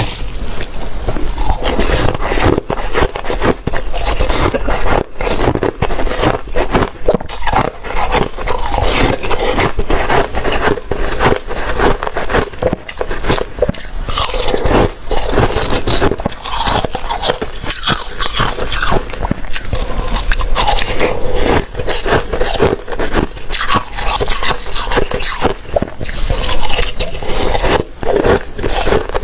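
Watery, slushy ice being bitten and chewed: a dense, unbroken run of wet crunches and scrapes.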